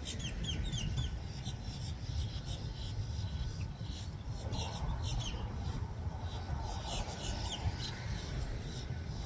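Small birds chirping in clusters of short, quick, sliding notes, over a steady low rumble of road and power-plant noise.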